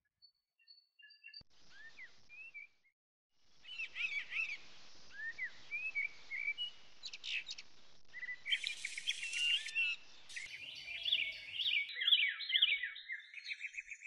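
Several songbirds singing and chirping with short whistled notes, ending in a fast run of repeated notes.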